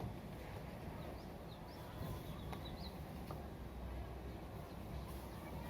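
Towel rubbing on wet hair, a steady muffled rustle, with a few faint bird chirps between about one and three seconds in.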